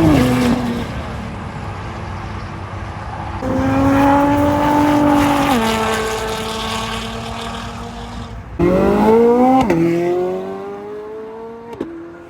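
Car engines accelerating hard through the gears. The pitch rises under load, then drops sharply at each upshift, with a fresh loud pull starting about three and a half seconds in and another near nine seconds.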